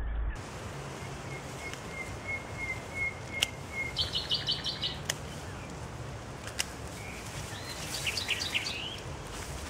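Songbirds singing: a run of short, evenly spaced notes, then a quick high trill about four seconds in, and more high, chirpy phrases near the end. A few sharp clicks stand out over the steady outdoor background.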